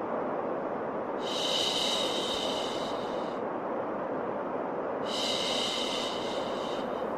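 Continuous low rushing white noise with a long 'shhh' shush laid over it twice, each about two seconds long, repeating about every three and a half seconds: a baby-soothing shushing loop.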